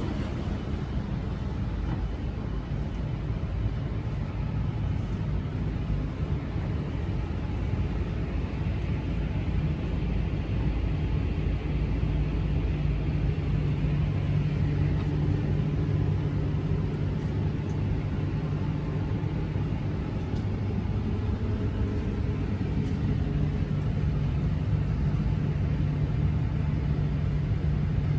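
Shinkansen train's steady low rumble, with a low hum that grows stronger about halfway through.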